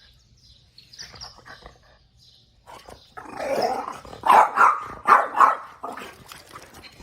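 A dog barking: a longer rough sound, then four loud barks in quick succession.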